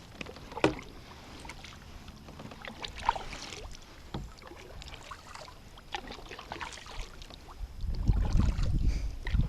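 Scattered light knocks and clicks aboard a fishing kayak, with a low wind rumble on the microphone building near the end.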